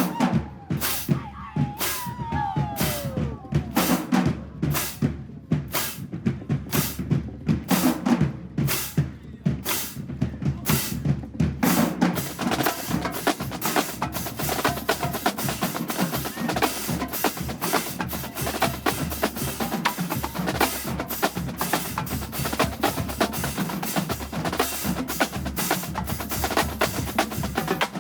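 Marching band drumline playing a cadence on snare and bass drums: sharp, evenly spaced hits about twice a second for the first dozen seconds, then dense, rapid drumming.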